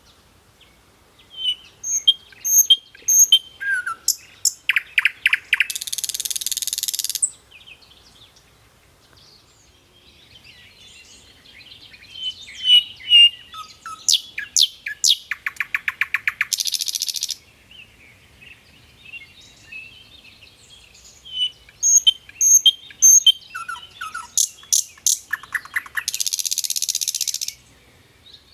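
A sikatan londo songbird singing the same phrase three times, with gaps of about five seconds between. Each phrase is a run of high, clear chirps, then a fast trill, ending in a harsh buzzy rasp about a second and a half long.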